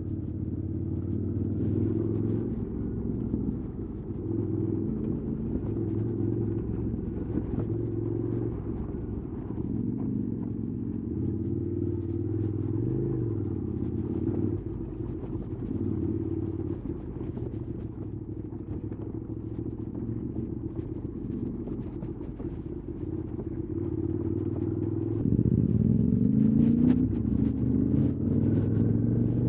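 QJ Motors SVT650X motorcycle engine, fitted with an Arrow slip-on exhaust, running at low to moderate revs under the rider. The pitch rises and falls as the throttle is rolled on and off. About 25 seconds in, the revs climb and the engine gets louder.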